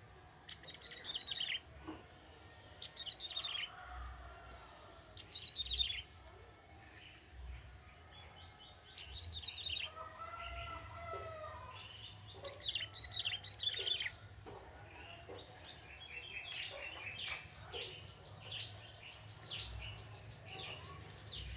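Young wild male ciblek tebu (prinia) singing in short bursts of rapid, high chirping notes every few seconds, running into a longer stretch of chattering over the last few seconds. A lower, arching call sounds once about ten seconds in, over a steady low rumble.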